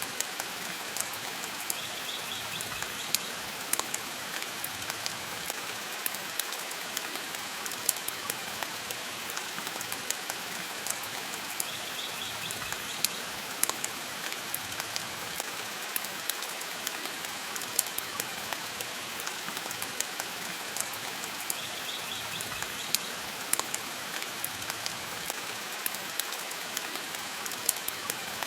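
Steady rain hiss mixed with the irregular sharp crackles and pops of a wood fire burning in a fireplace.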